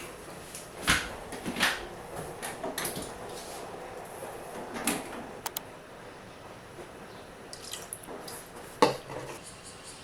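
Dishes and tableware handled in a small room: a few scattered clinks and knocks, the loudest about a second in and near the end, over a faint steady background.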